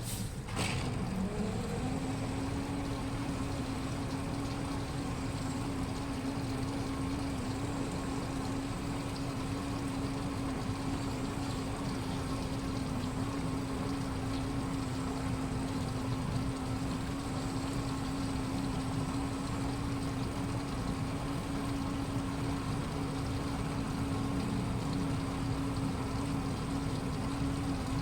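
Washing machine running: a click, then a motor hum that rises in pitch for about a second and holds steady, over a constant wash of mechanical and water noise.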